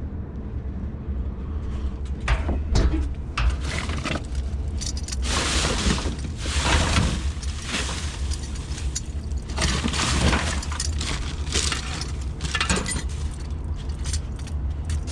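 Scrap and rubbish being rummaged through and handled: repeated irregular clattering and clinking, busiest in several stretches, over a steady low rumble.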